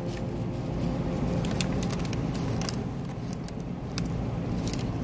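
A person biting into and chewing a burger, with scattered short mouth clicks over a steady low hum.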